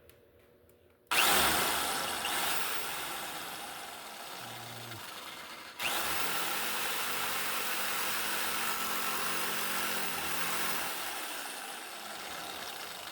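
Power saw cutting through a steel rear fender strut on a 1987 Harley-Davidson Softail, starting suddenly about a second in, stopping briefly and starting again about halfway through, then running steadily.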